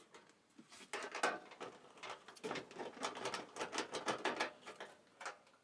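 Irregular light clicking and rattling of screws and dryer panel parts being handled during reassembly.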